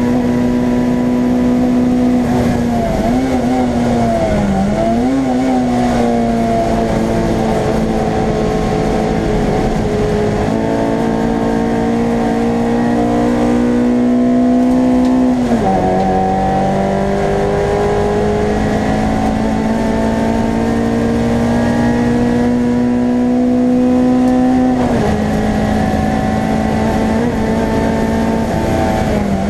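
Race car engine running hard at high revs, heard from inside the stripped, roll-caged cabin. The pitch climbs slowly in each gear and drops sharply at upshifts about ten, fifteen and twenty-five seconds in, with a brief dip and wobble about three to five seconds in.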